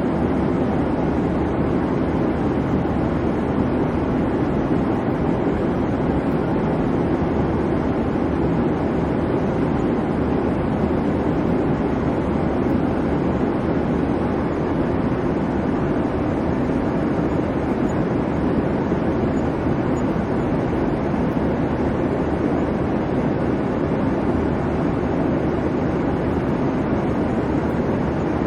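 Airliner cabin noise: a steady, unchanging rumble and hiss of engines and airflow, strongest low down.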